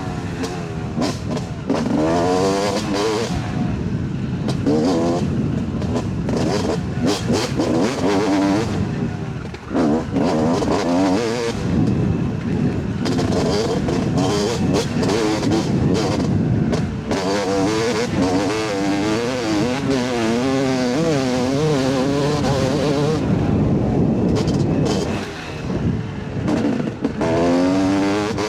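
Yamaha YZ250 two-stroke dirt bike engine revving hard, the pitch climbing and falling again and again as the throttle is worked through the gears, echoing in the trees. The throttle briefly closes about ten seconds in and again near the end.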